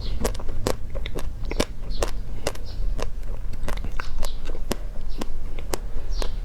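Close-up crunching and chewing of crisp food: sharp, irregular crunches several times a second.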